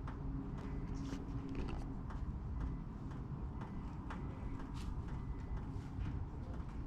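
Scattered light clicks and knocks, irregular and a fraction of a second to a second apart, over a steady low rumble.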